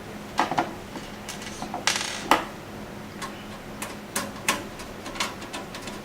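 Irregular clicks and taps of a screwdriver and screws against a plastic case fan and the metal PC case, as the fan's mounting screws are driven in by hand.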